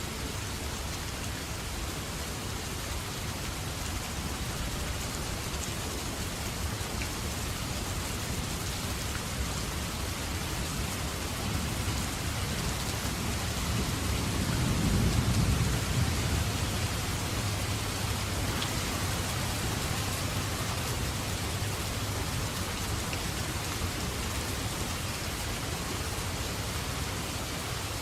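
Steady rainfall hissing, with a low rumble of thunder that swells up and fades away about halfway through.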